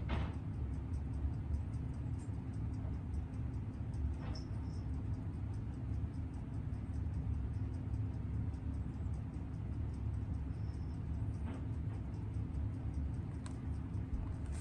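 Seiko 6138 automatic chronograph movement ticking evenly at about six beats a second over a steady low hum. The movement is freshly rebuilt and running in while its lubrication spreads. A few single clicks stand out.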